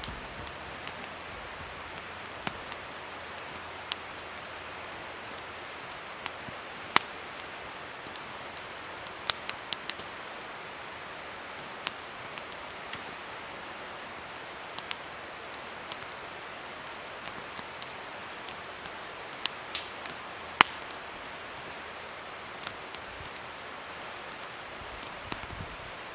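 Wood fire crackling: a steady hiss with scattered sharp pops, the loudest about seven seconds in and about twenty seconds in.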